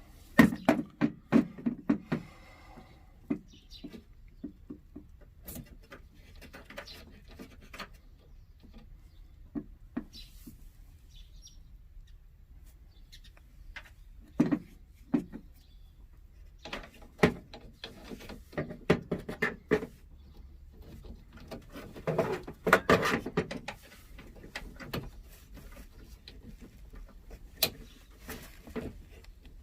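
Irregular clicks, knocks and rattles, as of objects being handled, coming in several clusters with quiet gaps between them, over a faint low hum.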